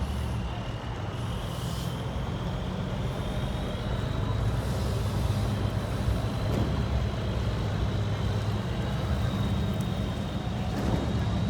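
A large vehicle engine running steadily, with a thin high whine held over the low drone.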